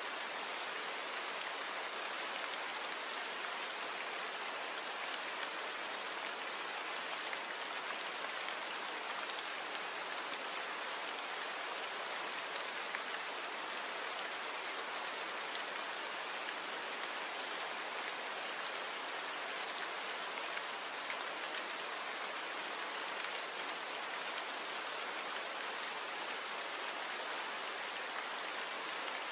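Steady rainfall, an even patter of raindrops on surfaces, noise-reduced.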